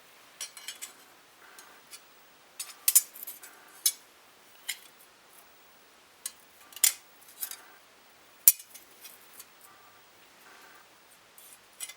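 Light clicks and clinks of small hard objects being handled, coming irregularly, with a few sharp louder clacks among them and a faint short ring after some.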